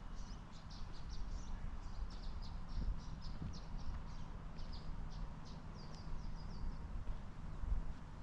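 Small birds chirping: a rapid, irregular string of short high notes that stops near the end, over a steady low rumble.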